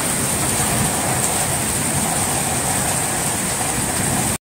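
Heavy rain falling steadily, an even hiss of a downpour, cutting off suddenly near the end.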